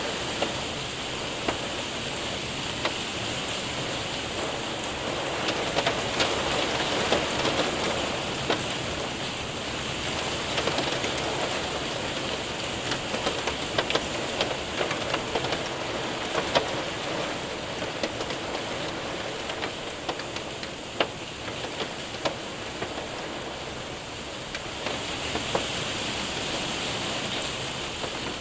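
Rain and hail hitting a window and roof: a dense steady patter with frequent sharp ticks of hailstones striking.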